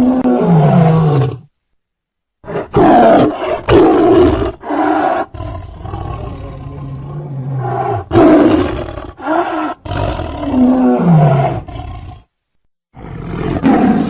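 Tiger growling and roaring, loud: a first call that falls in pitch, then after a short gap a run of growls and roars broken by brief pauses, and another call starting near the end.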